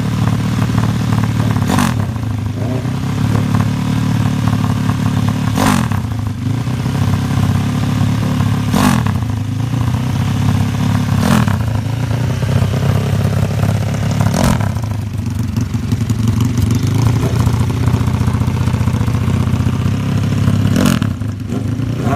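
Motorcycle engine running steadily at idle, with about six short sharp knocks spaced irregularly through it.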